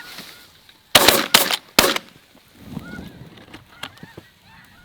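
A quick volley of about four shotgun blasts from several hunters within a second, with snow goose calls before and after.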